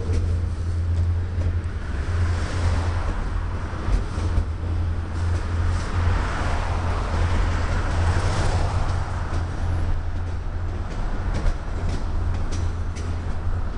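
A train rolling past below: a steady low rumble with wheel and rail noise that swells in the middle and eases off, and scattered light clicks in the last few seconds.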